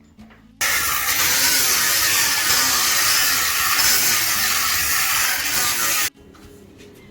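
A loud, steady hiss that starts abruptly about half a second in and cuts off abruptly after about five and a half seconds.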